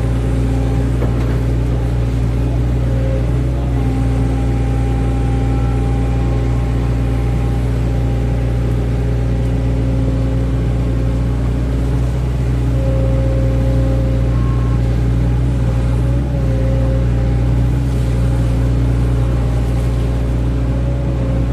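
Hydraulic excavator's diesel engine running steadily under working load, with tones that shift in pitch now and then as the hydraulics work.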